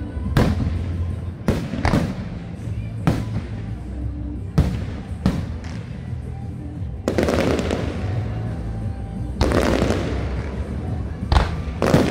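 Fireworks shells bursting in a show: a string of sharp bangs, roughly one a second, with two longer bursts that trail off about seven and nine and a half seconds in.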